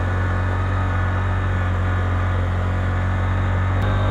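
125cc motorcycle engine pulling in first gear up a steep climb: a steady low drone that shifts slightly near the end.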